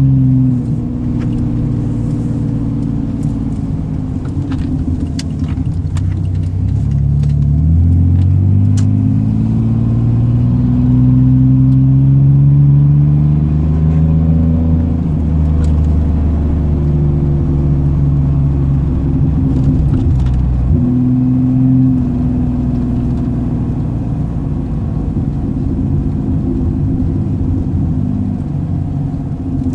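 Straight-piped exhaust of a 2002 Chevy S10 Xtreme's 4.3-litre V6 under acceleration, the automatic transmission shifted by hand. The engine note climbs slowly through a gear and drops back at each shift, more than once.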